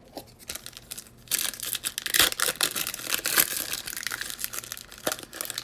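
Foil wrapper of a baseball card pack being torn open and crinkled, a dense crackling that starts about a second in and runs until near the end.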